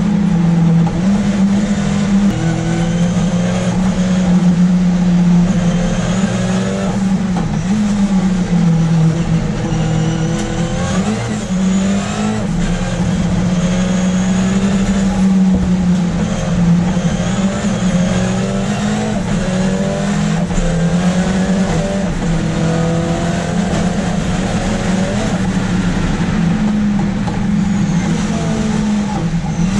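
Ford Escort RS Cosworth's turbocharged four-cylinder race engine, heard from inside the car at speed on track. The engine note rises again and again as it pulls up through the revs.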